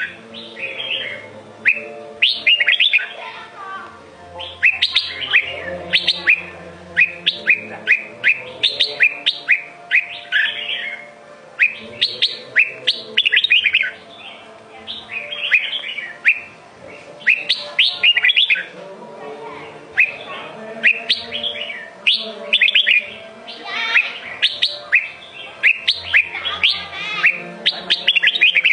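Red-whiskered bulbul singing, phrase after phrase of quick, clear whistled notes with short gaps between phrases.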